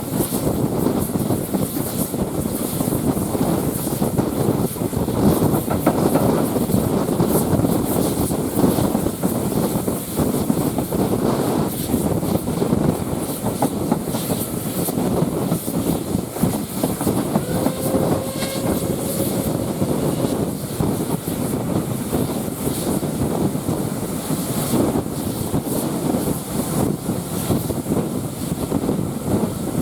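Train running on the line, a steady rumble throughout, with a faint brief tone a little past halfway.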